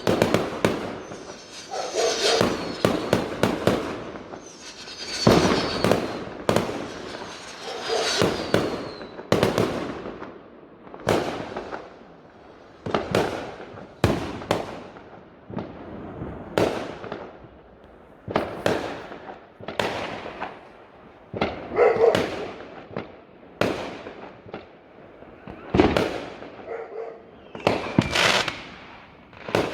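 Fireworks going off: a run of sharp bangs about every second or two, many followed by crackling and fizzing.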